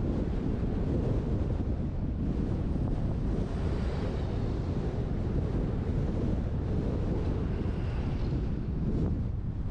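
Steady wind buffeting on the microphone of a GoPro mounted on the roof of a moving truck: a dense low rumble with hiss above it and no distinct events.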